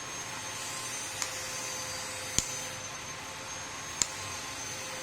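Three sharp clicks about a second or more apart, a baby Alexandrine parakeet's beak knocking against its feeding utensil as it eats, over a steady background hiss and hum.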